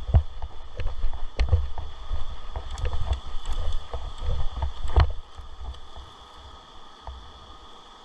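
Kayak on a whitewater river, heard from a camera on the boat: gusty wind rumble on the microphone over a steady water hiss, with a few sharp knocks, the loudest about five seconds in, after which it goes quieter.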